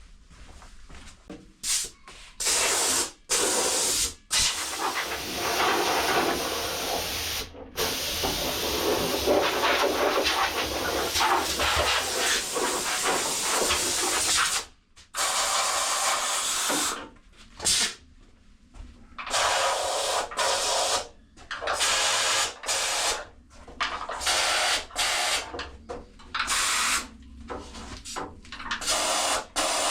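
Compressed-air blow gun hissing as it blows sanding dust out of a car's engine bay: a few short blasts, then one long blast of about ten seconds, then many shorter on-and-off blasts.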